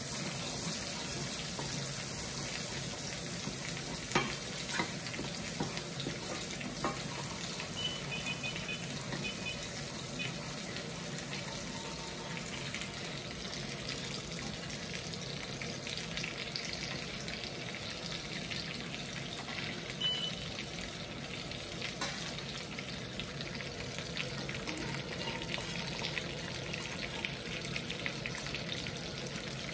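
Food sizzling steadily in a hot pan, with a few light knocks scattered through it.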